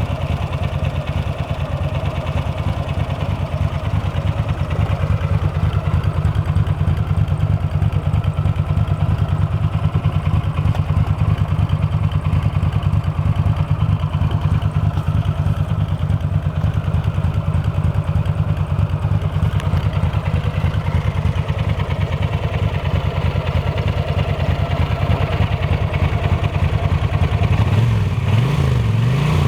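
GL700 motorcycle engine idling steadily, with a quick run of throttle blips near the end. The engine burns oil at idle, which the owner puts down to worn valve stem seals letting oil down past the intake valves.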